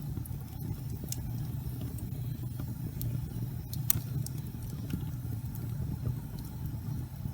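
Fireplace fire burning: a steady low rumble of the flames with scattered faint crackles, one sharper crack about four seconds in.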